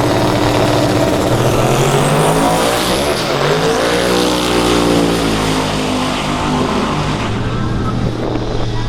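Drag-racing truck engine running hard, its pitch rising and then falling back about halfway through.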